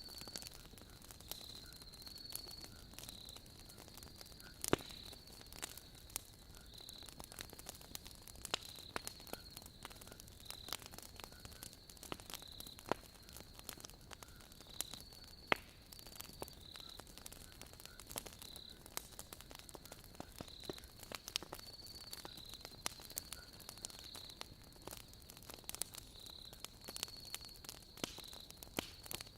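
Wood fire crackling with frequent sharp pops, one of the loudest about five seconds in, over a continuous high-pitched chirring of crickets.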